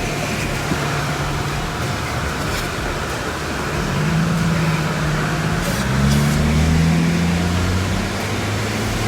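Steady outdoor noise with a motor vehicle's engine hum coming in about four seconds in, its pitch rising a little and getting louder, then holding steady.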